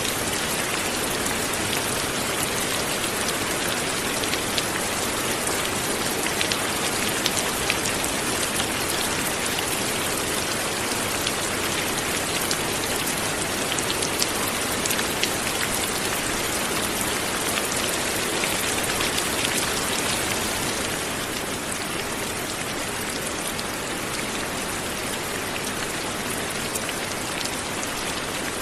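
Light, steady rain falling, with scattered sharper taps of single drops; it eases slightly about two-thirds of the way in.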